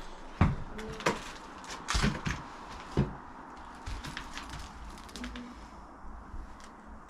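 Scattered knocks and thumps as someone moves through a debris-strewn room, the loudest about half a second, two seconds and three seconds in, over a faint low rumble.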